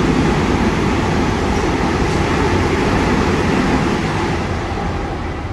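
Container freight train's wagons rolling past close by: a loud, steady rumble of steel wheels on the rails, easing a little toward the end.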